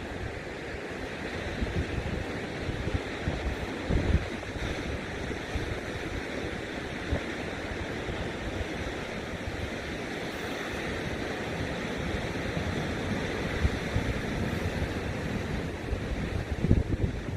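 Ocean surf washing in steadily under strong wind, with gusts buffeting the microphone in low rumbling thumps about four seconds in and again near the end.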